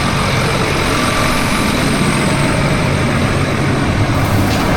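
Crop sprayer's engine running steadily with a low, even hum.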